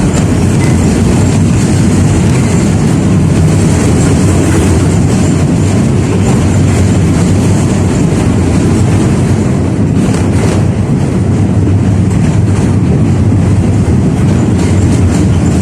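71-605A (KTM-5A) tram running along the line: a steady rumble of wheels on rail and running gear. A few short knocks come about ten seconds in.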